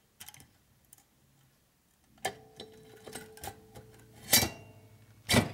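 Metal engine parts clinking and knocking as a shovelhead rocker box is fitted onto the rear cylinder head: a few light clicks, then a run of sharp ringing clinks with two louder knocks near the end.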